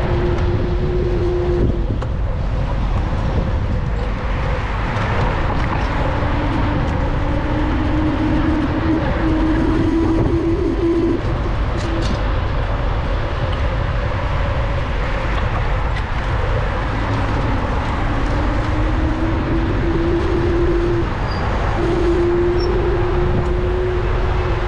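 Street traffic and road noise heard from a moving bicycle, dominated by a steady low rumble, with a faint humming tone that fades in and out three times.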